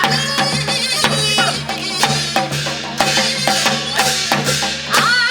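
Korean traditional folk music accompaniment: quick, regular drum strokes under a sustained melody line. Near the end a long, arching voice-like call begins.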